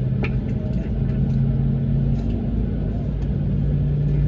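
Airbus A220-300 cabin drone on the ground: a steady low hum that steps up slightly in pitch about three seconds in, with a few faint clicks.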